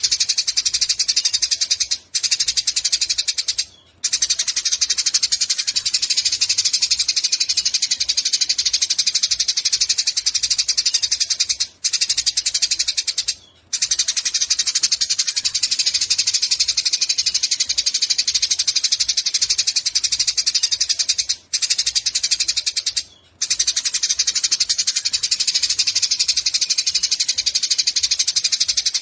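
Eurasian tree sparrow chattering in a rapid, unbroken stream of high chirps, cut by short pauses in pairs about every ten seconds.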